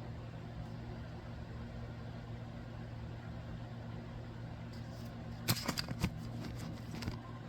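Steady low electrical hum, like a fan or appliance running, with a cluster of short clicks and rustles about five and a half seconds in.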